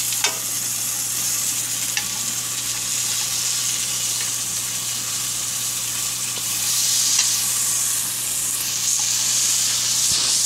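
Pork chops sizzling as they fry in a pan: a steady hiss with a few faint pops.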